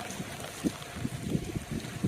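Wind buffeting the microphone: irregular low rumbles from about half a second in, over a steady hiss.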